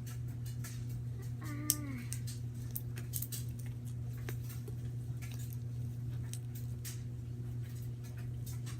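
Hands kneading and squishing cloud slime, making small sticky clicks and crackles throughout over a steady low hum. About a second and a half in there is a short, falling, voice-like call.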